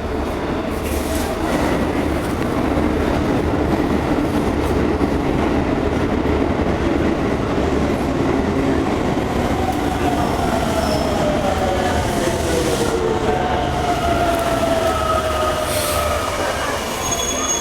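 Toei 5300 series electric train running, heard from inside the car: a steady rumble of wheels and motors. In the second half several tones glide slowly downward together.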